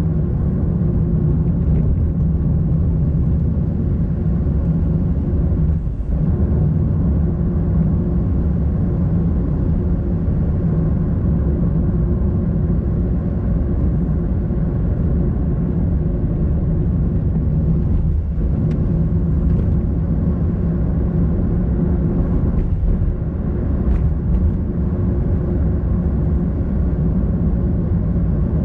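Car driving steadily: continuous engine and tyre-on-road rumble with a steady low hum.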